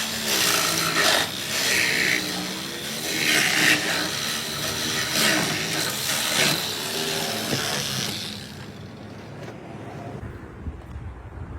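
A motor-driven machine running loud, its pitch wavering up and down over a harsh hiss, dying away about eight seconds in.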